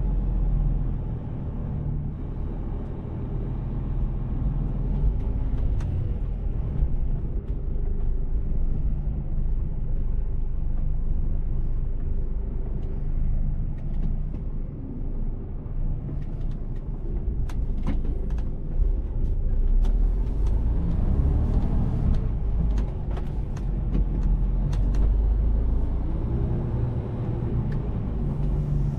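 Mercedes-Benz Actros truck's diesel engine running under way, with steady low road rumble that swells and eases with throttle, and a few short clicks after the middle.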